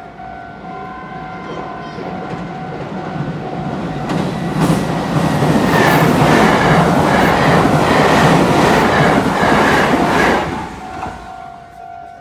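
Meitetsu 2200 series electric train passing close on a steel girder bridge: a rushing rumble with wheels clattering over the rail joints. It builds over the first few seconds, is loudest from about four to ten seconds in, then falls away quickly.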